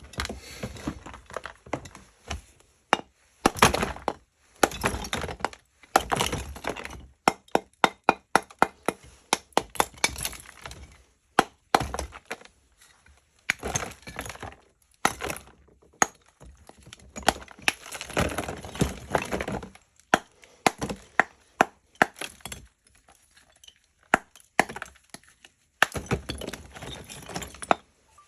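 Lumps of natural edible chalk being snapped and broken by hand: a run of sharp dry cracks, some in quick clusters, with crumbling and the grating of pieces against each other between the breaks.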